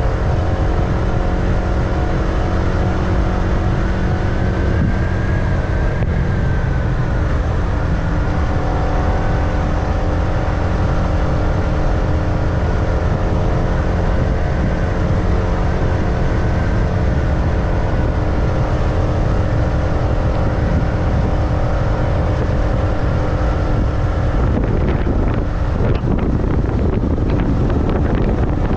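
Motorbike engine running at a steady cruising speed during a ride, with a heavy low rumble and wind on the microphone; the engine note shifts and roughens near the end.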